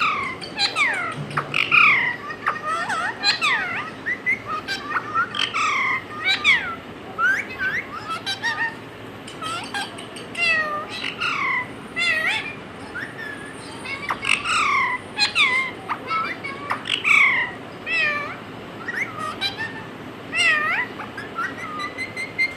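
Parrot calling: many short chirps and squawks with falling pitch, coming in quick, irregular runs.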